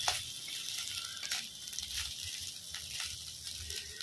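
Fish roe frying in a metal kadai: a faint steady sizzle, with a few soft scrapes of a steel spoon stirring it.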